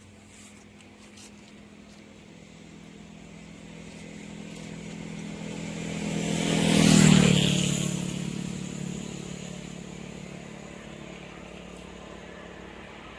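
A motor vehicle passing by: its engine grows louder, peaks about seven seconds in, then fades away.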